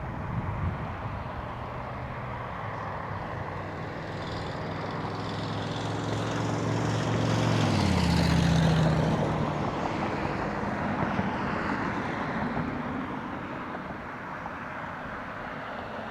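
Boeing 737-900ER jet airliner passing by, its engine noise building to a peak about halfway through. The engine tones drop in pitch as it goes past, then the sound fades.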